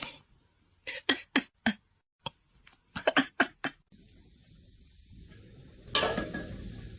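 Two quick runs of sharp clinks or knocks, four or five in each, followed by a steady hiss of noise that grows louder near the end.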